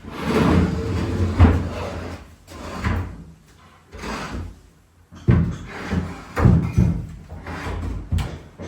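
A bed frame being taken apart: a run of loud, irregular knocks, bangs and clatters, with a short quiet gap about halfway through.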